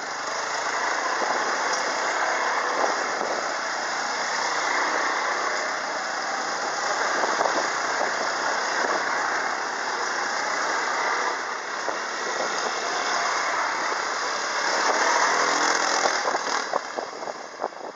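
Quad bike engine running steadily while riding.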